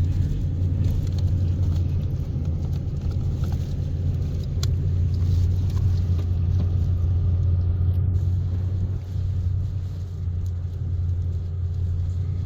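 Pickup truck driving slowly, a steady low rumble of engine and road noise with a few light ticks.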